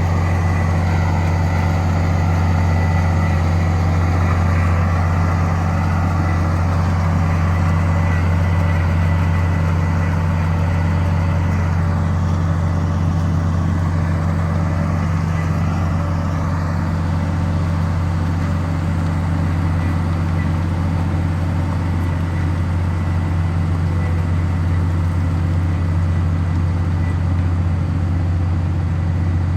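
A heavy machine's engine running steadily at an even speed, a deep unchanging hum with no revving.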